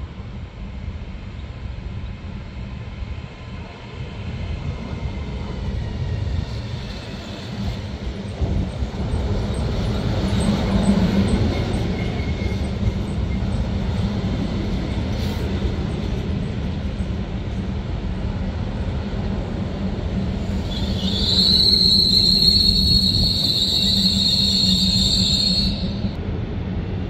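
A Hitachi Rock double-deck electric train rolls slowly in along the platform, its rumble growing as it draws near. About three quarters of the way through, a loud high metallic squeal sets in as it slows, lasting about five seconds and then cutting off suddenly.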